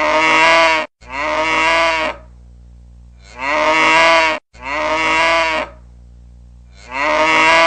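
Cow mooing, played as a looping ringtone: five moos of about a second each, coming two close together then a pause, with a faint low hum between them. The loop restarts with an abrupt cut twice.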